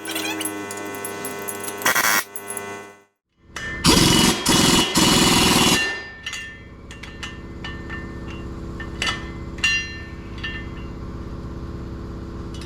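Impact wrench running in several loud, rapid hammering bursts over about two and a half seconds, working a wheel or brake fastener. Before it there is a steady mechanical hum, and after it a steady low hum with scattered clicks.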